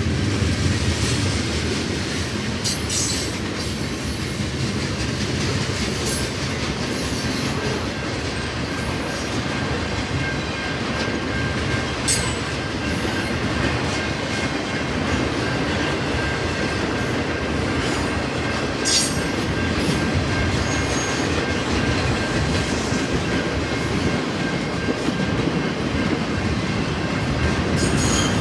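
Train rolling past at steady speed, a continuous rumble of cars and wheels on the rails with scattered clicks. A thin steady wheel squeal comes in about a third of the way through and holds.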